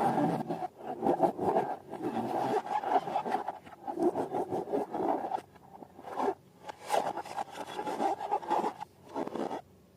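Slime being worked by hand: a continuous, irregular squishing and scraping with small crackles, which stops near the end.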